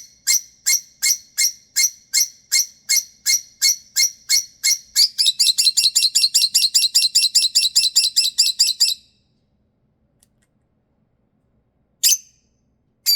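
Lovebird giving a rapid run of shrill, evenly spaced calls, about three a second, quickening to about five a second around five seconds in and stopping suddenly near nine seconds, then one more call near the end. It is a bedtime tantrum, the bird's usual protest when she wants to go to bed.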